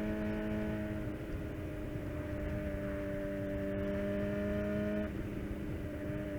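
Suzuki GSX-R750 inline-four engine running through a full Yoshimura exhaust, held at steady high revs with its pitch creeping slightly upward. About five seconds in, the note eases a little and gets slightly quieter.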